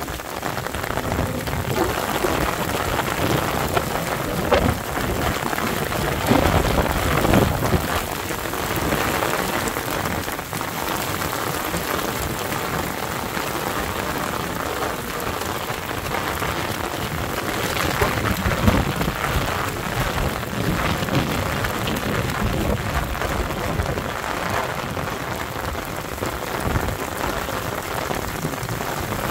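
Heavy rain falling on an asphalt road: a dense, steady hiss of drops splashing on the wet surface, with a few louder low rumbling swells coming and going.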